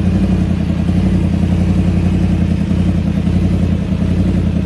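Yamaha R1 RN32's crossplane inline-four engine running steadily through a Leo Vince LV10 aftermarket exhaust, a loud, fast, even pulsing with no clear rise or fall in pitch.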